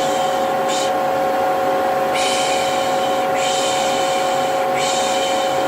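Vacuum cleaner running with a steady hum, overlaid with repeated 'shh' shushing ('piş piş'). There is one short hush early on, then three long hushes of about a second each, back to back.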